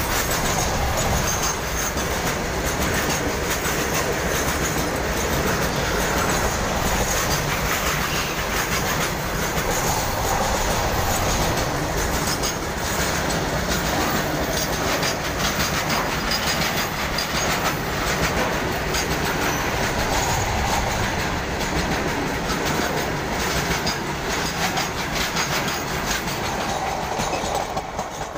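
Freight train wagons rolling past close by, a steady loud rumble with wheels clattering over the rail joints. The noise starts to fall away near the end as the last wagon passes.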